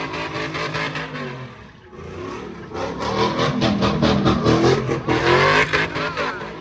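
Car engine revving at a sideshow: it eases off and quietens about two seconds in, then revs back up, its pitch climbing and swinging up and down.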